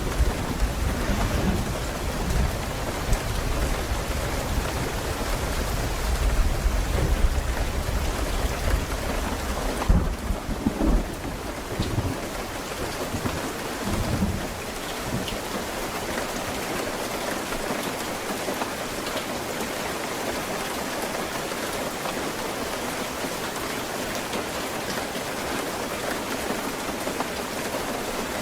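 Steady rain falling, with a long rolling rumble of thunder through the first half. A sharp crack comes about ten seconds in. The thunder dies away about halfway through, leaving only the rain.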